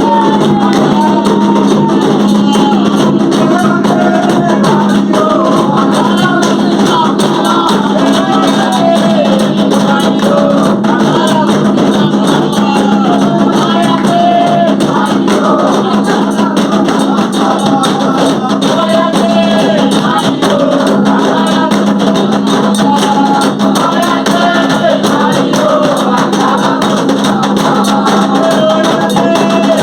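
Voices singing an orixá song together over continuous shaken percussion, without a break.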